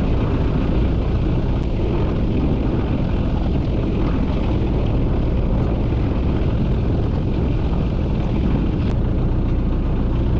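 Boat engine running steadily, a low even drone under a wash of noise.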